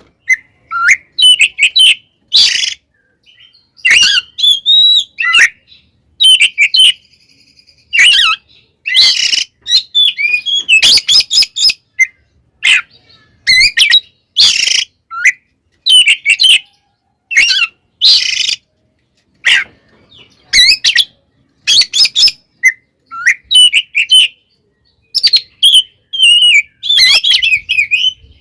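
Oriental magpie-robin (kacer) singing loudly in quick bursts of varied sharp whistles and chirps, mixed with harsh rasping notes and broken by short pauses. This is the agitated, fighting-mood song kacer keepers call 'tarung'.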